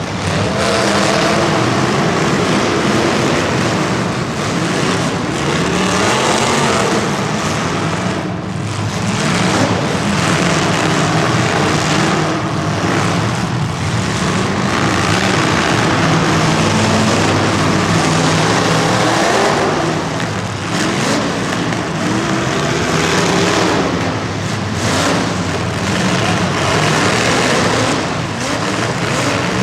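Racing vehicle engines running and revving, their pitch rising and falling over and over through the heat.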